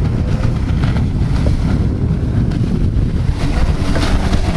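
Heavy wind buffeting the microphone, with a watercraft engine running underneath.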